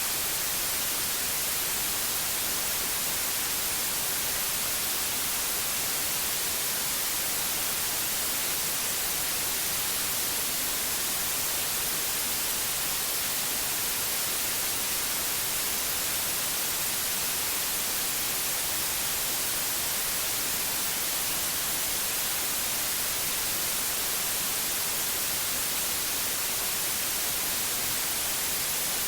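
Synthetic white noise: a steady, even hiss with no changes, brightest in the high frequencies.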